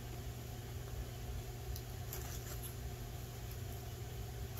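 A steady low hum with a few faint clicks and rustles about two seconds in, like food and its packaging being handled while eating.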